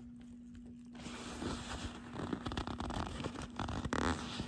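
Stiff, dried-out leather jacket sleeve being handled and flexed, giving faint rustling with small crackles that begin about a second in and grow toward the end, over a faint steady hum.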